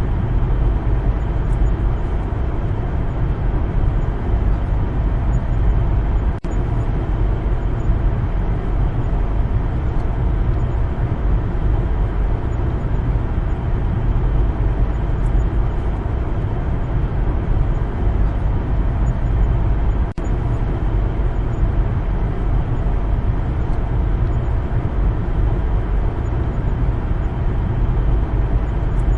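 Steady low rumble of a car driving on the road, tyre and engine noise with no change in pace, dipping for an instant twice.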